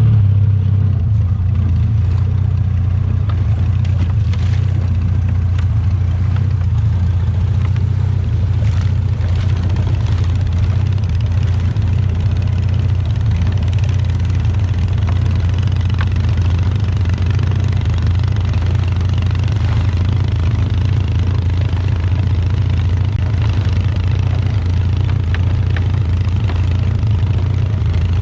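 Small fishing boat's engine opened up abruptly, then running steadily at speed with a strong, even low hum.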